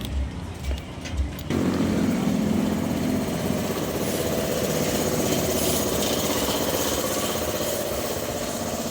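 Motor vehicle engine running steadily with street traffic noise, cutting in abruptly about a second and a half in after a few light clicks.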